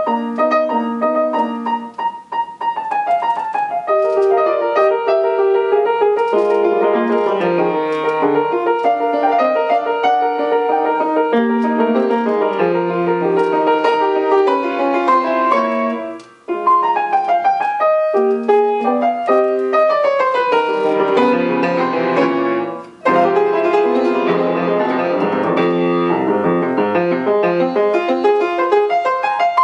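Solo piano playing classical repertoire: fast, continuous runs of notes, broken by two brief pauses about 16 and 23 seconds in.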